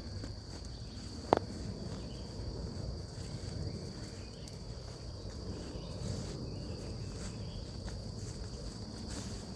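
Steady chorus of insects making a continuous high-pitched drone, over footsteps on the trail. A single sharp click sounds about a second in.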